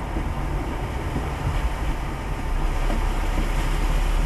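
Steady low rumble of a car with an even hiss over it, heard from inside the cabin; it grows a little louder about two and a half seconds in.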